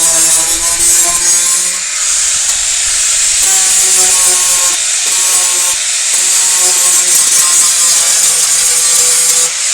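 Power sander running against a car body panel during sheet-metal dent repair: a steady hiss of abrasive on the panel over the tool's humming motor, easing briefly about two seconds in before picking up again.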